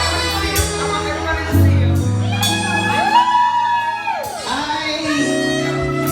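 Live R&B band playing with a singer: steady bass notes under held melody notes, with one line bending up and back down about halfway through.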